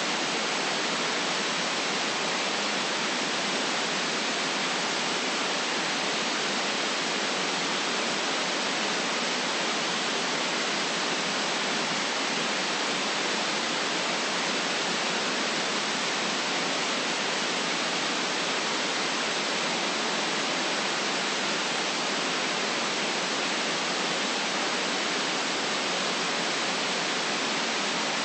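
Steady white noise: an even, unchanging hiss with almost no deep bass, the kind played as a sleep aid.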